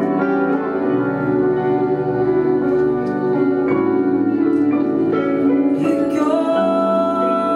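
A live band playing an instrumental passage of a pop song, with sustained keyboard chords.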